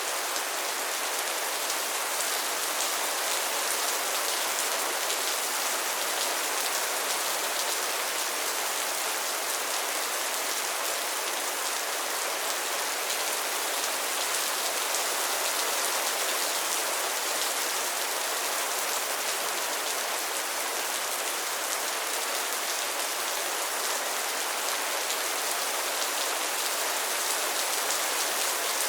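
Steady rain falling on a pond and its lily pads: a dense, even patter of drops on water and leaves.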